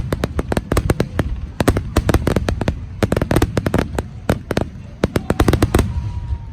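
Aerial fireworks going off in a rapid volley, many sharp bangs in quick succession over a low rumble, stopping suddenly near the end.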